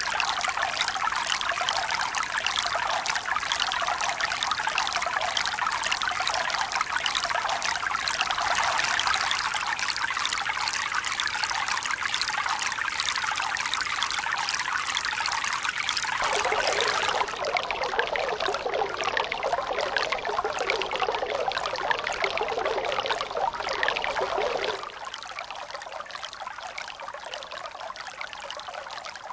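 Continuous running, splashing water. It changes abruptly twice, about 16 seconds in and again about 25 seconds in, where it becomes quieter, as if separate recordings are joined.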